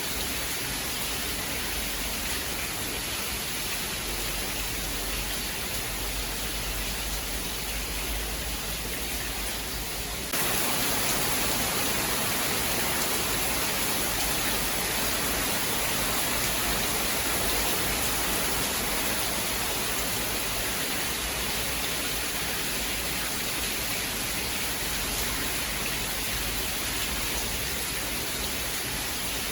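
Steady rain falling hard, an even hiss with no thunder. About ten seconds in it abruptly becomes louder and hissier, a sudden switch typical of a spliced recording.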